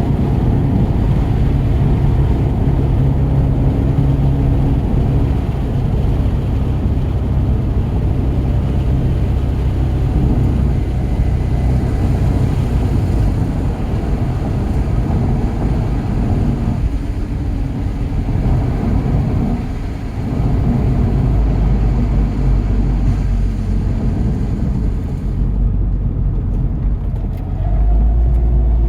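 Tuned 2017 Volkswagen GTI's turbocharged 2.0-litre four-cylinder engine running hard at speed, mixed with road and wind noise. The level dips briefly about two-thirds of the way through, and the low rumble grows heavier near the end.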